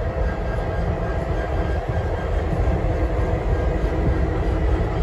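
Train rolling past with a steady, unbroken rumble.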